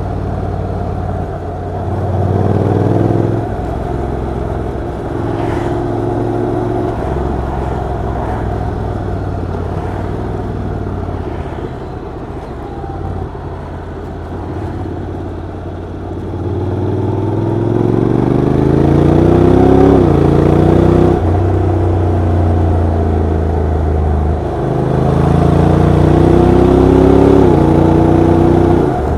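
Honda NC750X motorcycle's parallel-twin engine and exhaust pulling through the gears. The pitch climbs under acceleration and drops sharply at each upshift, several times, with steadier cruising between.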